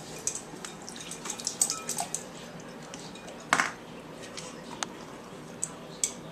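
Dog splashing and nosing at ice cubes in its water bowl: scattered drips, small splashes and clinks, with one louder splash about three and a half seconds in.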